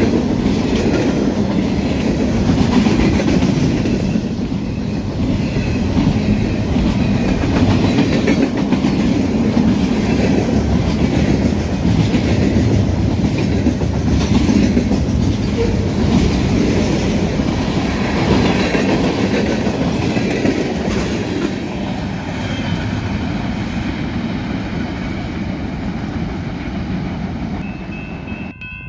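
Norfolk Southern freight cars rolling past close by: a steady loud rumble of steel wheels on rail with repeated clickety-clack as the wheels cross rail joints, easing off over the last few seconds.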